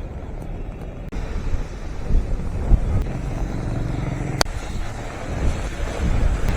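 Wind buffeting the microphone in gusts over a steady outdoor rumble, with one sharp click about four and a half seconds in.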